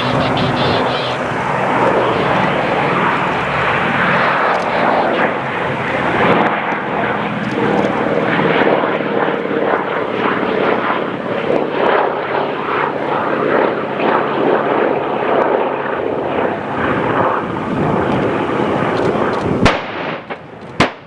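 Piston-engined World War II warbirds flying past low, a loud steady drone of radial and V-12 engines and propellers. A brief sharp crack comes near the end.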